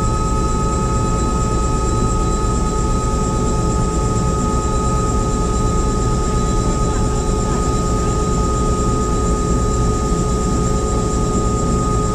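Helicopter in flight: a steady drone of engine and rotor with a constant high whine over it.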